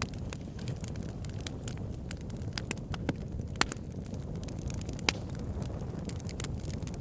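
Wood fire burning in a fireplace: a steady low rumble of flames with irregular sharp crackles and pops from the burning logs, two louder pops about three and a half and five seconds in.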